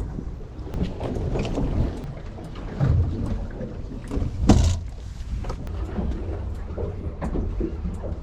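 Wind and water noise aboard a small fishing boat at sea: a low rumble with scattered knocks, and one louder thump about four and a half seconds in.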